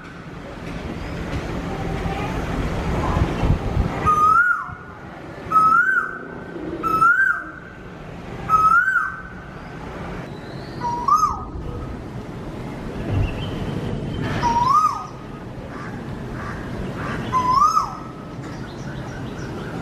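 A bird repeating a short whistled call seven times, one every second and a half or so, each note hooking up then dropping in pitch, the last three a little lower. A steady rushing noise runs underneath.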